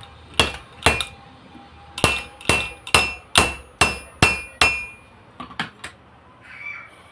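Hammer striking metal with a ringing note: two blows, a short pause, then seven quick, even blows, followed by a few lighter taps near the end.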